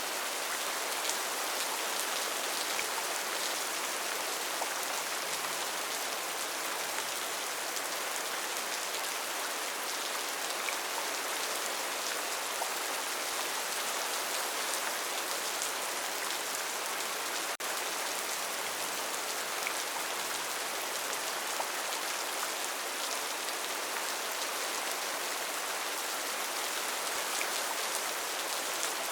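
Steady rain falling, an even hiss with scattered drop ticks; one brief click and dip about two-thirds of the way through.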